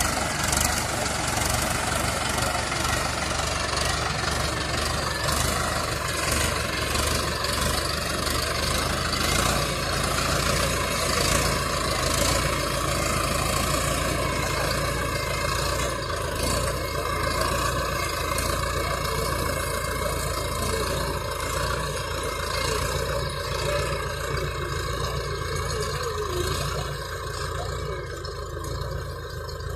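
Tractor engine running steadily, easing off a little near the end.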